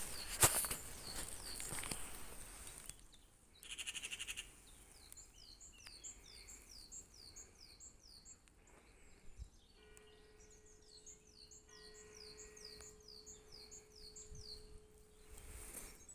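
A songbird singing a run of quick, high, down-slurred notes, a few per second, repeated in phrases. A short rapid buzzing trill comes near the start, and a steady low hum joins about two-thirds of the way in.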